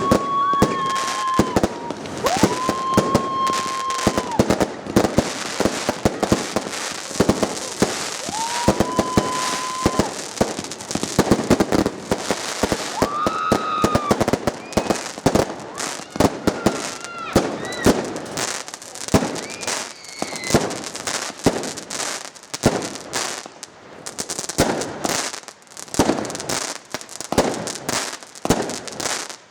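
Fireworks barrage from multi-shot cakes of 20–40 mm calibre: rapid launch thumps and bursting cracks, one after another. Several long steady whistles, each one to two seconds, sound among them in the first half.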